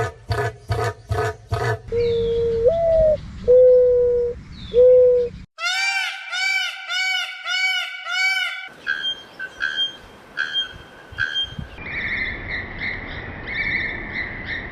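Several different birds' calls in succession, changing every few seconds: a fast run of harsh repeated calls, then a few clear low whistled notes, one sliding up, then a series of quick arched calls, and finally high calls over a steady whistle.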